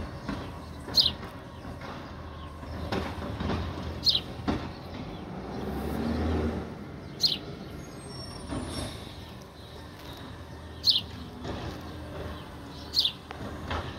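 A bird giving a short, sharp call that falls in pitch, five times at intervals of a few seconds, over a low rumble of road traffic that swells for a moment about six seconds in.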